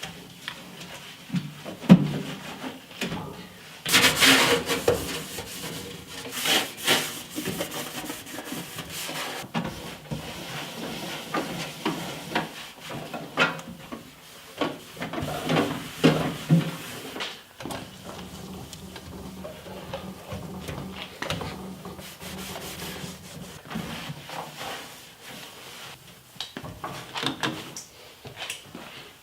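Wiping and scrubbing the inside of a microwave after spraying it with vinegar cleanser: irregular rubbing strokes with a few knocks against the oven walls, the loudest about two and four seconds in.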